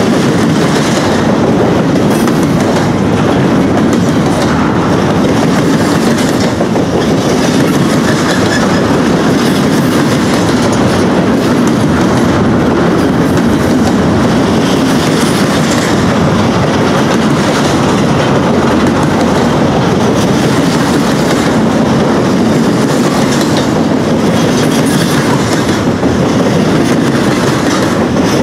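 Freight train cars rolling past at close range: a loud, steady rumble with clickety-clack wheel clatter.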